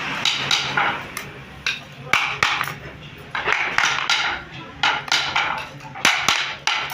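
Irregular clatter of hand tools working wood: sharp knocks and short scraping bursts, several a second, over a faint steady hum.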